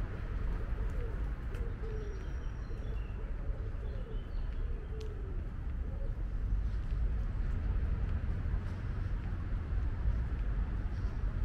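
A bird giving a repeated low call, the calls stopping about six seconds in, over a steady low rumble of city ambience, with a few faint higher chirps.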